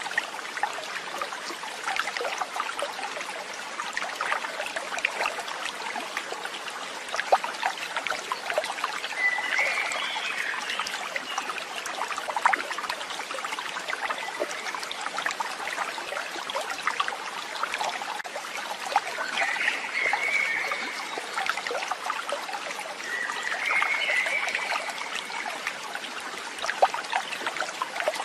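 A stream of water trickling and babbling steadily, full of small splashes. Three short, high warbling calls come through it, about a third of the way in and twice more later on.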